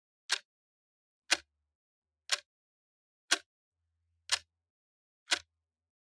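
Clock ticking once a second, short sharp ticks with silence between them.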